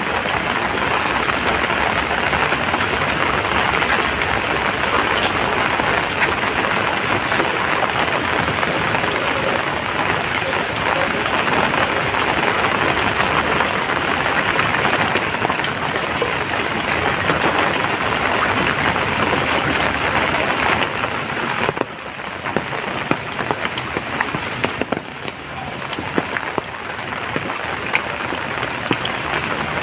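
Heavy rain falling steadily, a dense hiss full of small drop ticks; it eases a little over two-thirds of the way through, leaving sparser, more distinct drops.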